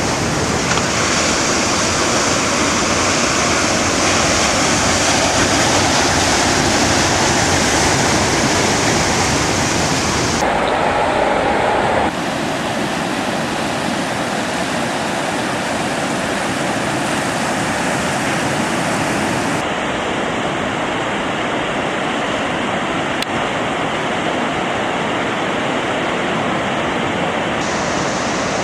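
Steady rushing of sea surf and wind on the microphone. Its tone shifts abruptly a few times, at cuts between shots.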